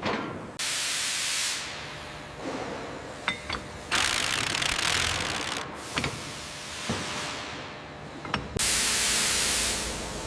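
Three bursts of hissing, each a second or two long, with a few sharp mechanical clicks and ratcheting between them over a low steady hum: tool work while the tracks and front idler are tightened.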